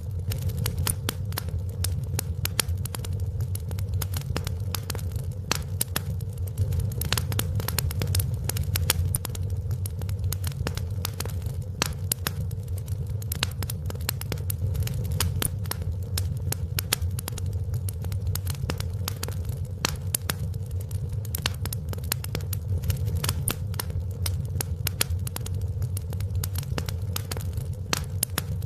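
Wood fire in a fireplace crackling, with dense, irregular sharp pops over a steady low rumble.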